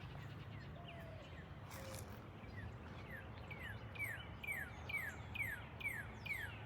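A small songbird singing a rapid series of short, downslurred whistled notes, about two or three a second, starting a couple of seconds in. Under it is a faint, steady low rumble of outdoor background noise.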